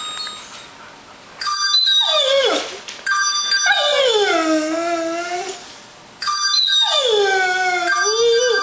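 A dog howling along to a cell phone ringtone. The ringtone comes in two rings of steady high tones, and over them the dog gives three long howls that fall in pitch.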